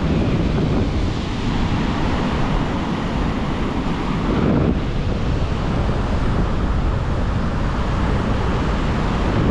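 Rough surf breaking on the shore with strong wind buffeting the microphone, a steady rushing noise that swells slightly now and then.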